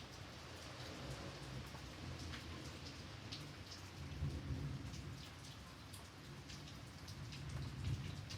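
Steady rain falling, with many single drops pattering on a surface, over a low rumble that swells about halfway through and again near the end.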